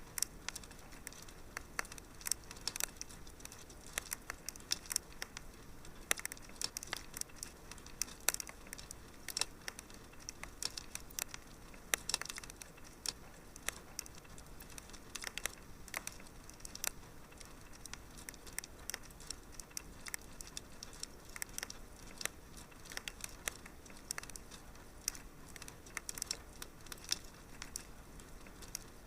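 Wood fire crackling: irregular sharp pops and snaps, some louder than others, over a low steady hiss of burning.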